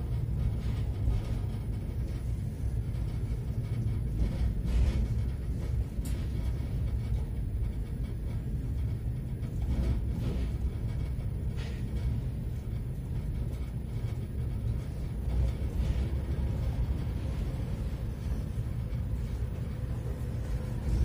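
Passenger train under way: a steady low rumble of the carriage running on the rails, heard from inside the car.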